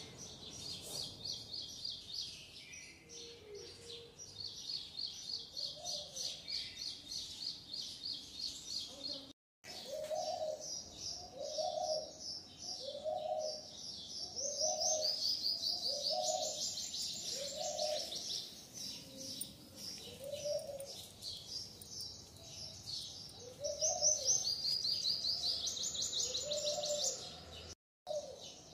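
Birds chirping in rapid high trills throughout. Through the middle, a lower call repeats about once a second. The sound cuts out completely for a moment twice.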